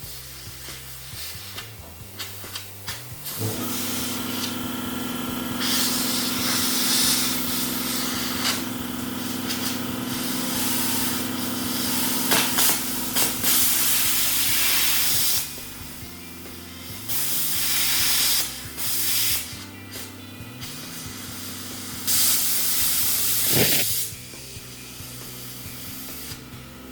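Plasma cutter cutting steel: a steady machine hum comes on a few seconds in, and the torch hisses in several bursts of one to a few seconds each.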